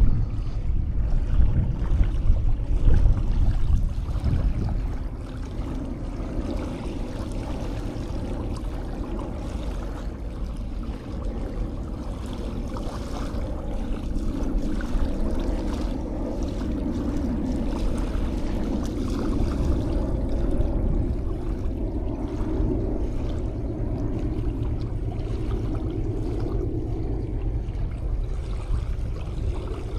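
Sea waves washing onto a sandy beach, a steady rushing wash, with heavier low rumbling in the first few seconds.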